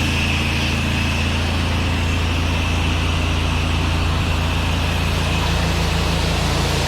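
Pressure washer's gas engine running steadily under the hiss of the high-pressure water spray.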